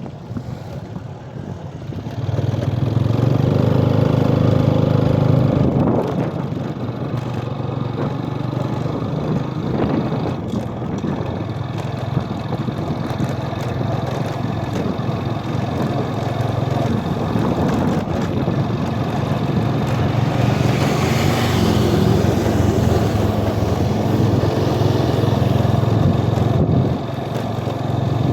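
Motorbike engines running and revving, with a steady engine hum underneath; an engine gets louder about two seconds in, and there are rises and falls in pitch later on.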